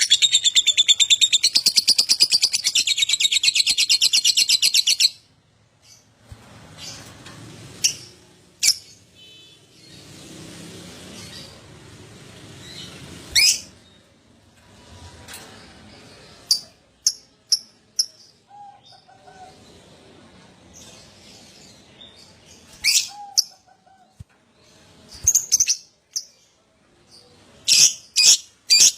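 Lovebird chattering in a loud, rapid-fire continuous trill, the 'ngekek' that fanciers prize; it cuts off abruptly about five seconds in. After that come single sharp chirps here and there, and a quick series of sharp calls near the end.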